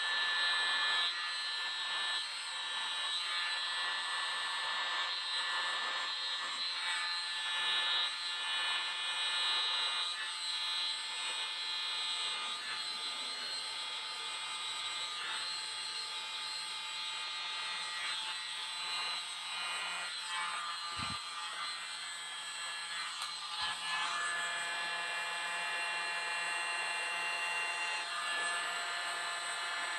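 Tiny electric blower running steadily, a whirring whine over a rush of air, as it pushes acrylic paint across a canvas.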